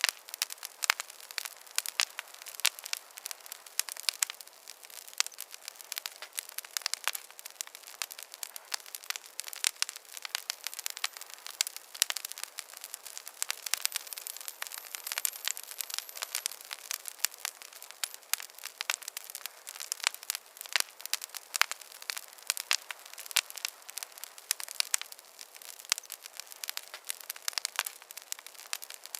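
Wood fire crackling in a fireplace: dense, irregular sharp pops and snaps over a steady hiss.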